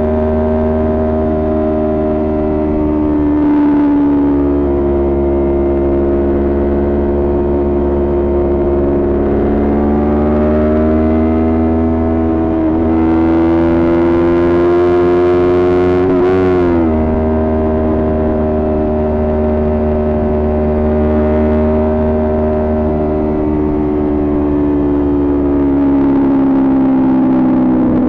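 Kawasaki Ninja 400's parallel-twin engine running under way at steady revs, its pitch slowly rising and falling with the throttle. It drops sharply around the middle, as with a shift or a throttle roll-off, and there is a rush of noise just before that drop.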